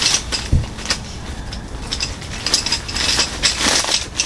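Fittings of a lightweight folding camping cot being handled and pressed together: irregular clicks and rattles of the legs and frame poles, with a low thump about half a second in.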